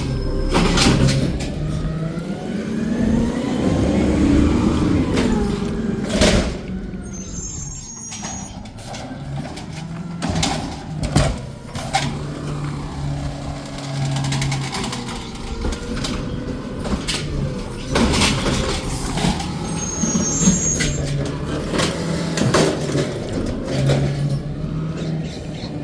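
Garbage truck working its route: the engine running and revving, with repeated clanks and knocks, and two brief high squeals.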